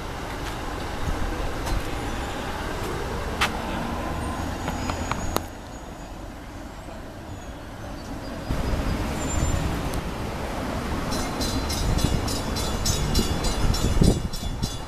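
Electric passenger trains running on track, a steady low rumble that grows louder in the second half. A fast, even, high-pitched ticking comes in near the end.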